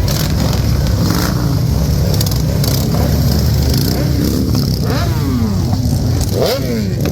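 Motorcycle engines running with a loud, low exhaust rumble, one being revved up a couple of times in the last few seconds.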